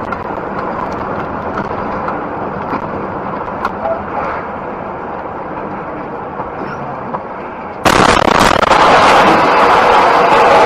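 Steady road and engine noise of a vehicle being driven, with a few faint clicks. About eight seconds in it jumps abruptly to a much louder, harsher rushing noise that stays loud.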